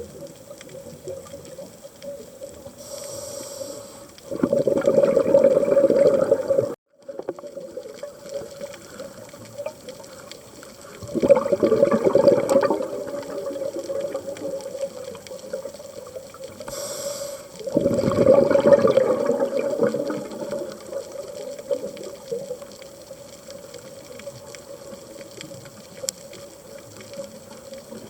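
Scuba diver breathing through a regulator underwater: a short hiss of inhalation, then a loud bubbling exhalation lasting a couple of seconds. The cycle repeats three times, about every six to seven seconds.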